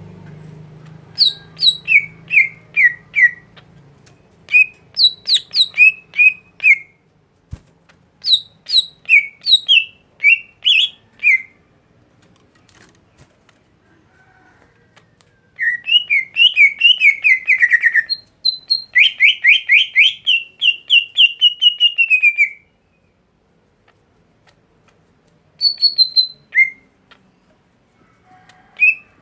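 A songbird singing in phrases of quick, sharp descending whistled notes, with two longer runs of rapid repeated notes in the middle and a brief phrase near the end.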